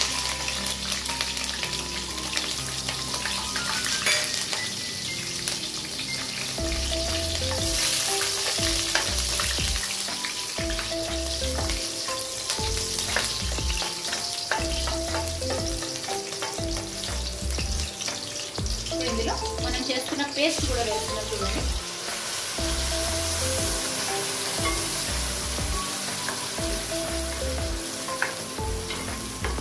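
Slit green chillies frying in hot oil in an aluminium kadai, a steady sizzle with small crackles as a ladle stirs them; later the red ground masala paste fries and sizzles in the pan as it is stirred. Background music with a steady beat comes in about seven seconds in.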